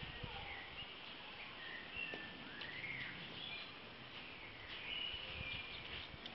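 Songbirds chirping over a steady hiss of background noise, recorded through a Nokia Lumia 610 phone's microphone: scattered short chirps, with one longer call that rises and then falls about two and a half seconds in.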